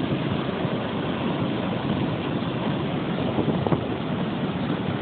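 Steady rushing of floodwater, with wind on the phone's microphone.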